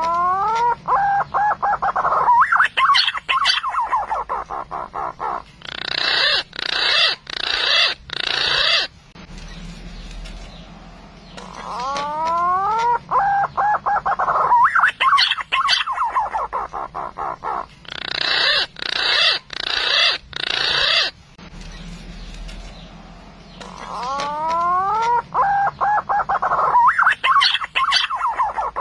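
Green pigeon (punai) call, played as a hunting lure. The phrase repeats about every twelve seconds: rising whistled notes, then a run of quick pulsed notes and harsher, higher-pitched pulses.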